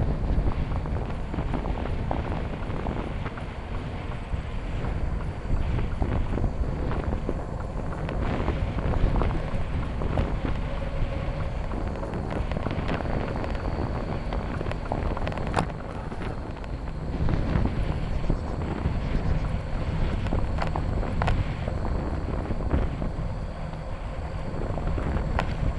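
A bicycle being ridden along a trail, heard from a handlebar-mounted camera: a steady rumble from the tyres and frame, with sharp rattles and knocks now and then and wind on the microphone.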